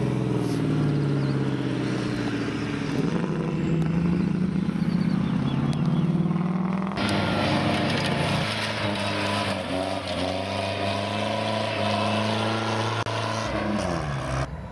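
Classic 1960s Ford Mustang fastback accelerating away on a gravel rally stage, its engine note rising and falling with the revs through the gears. About halfway it gives way abruptly to a pre-war British open sports car's engine running past under power, its pitch falling near the end.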